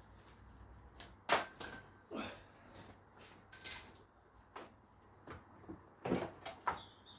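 Metal hand tools clinking and knocking as they are picked up and handled, a string of separate sharp clinks, two of them with a brief high metallic ring, the loudest about three and a half seconds in.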